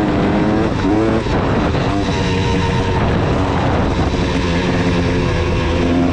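KTM 300 two-stroke dirt bike engine running under way, its pitch rising and falling as the throttle is worked, with a drop and a fresh climb about a second in.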